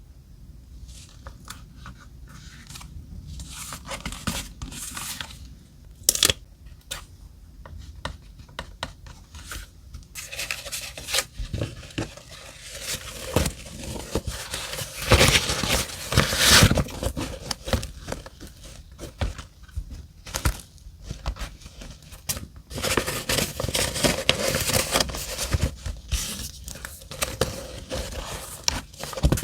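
Paper being handled and torn while a journal page is decorated: irregular rustling, crinkling and tearing, with louder stretches about halfway through and again near the end.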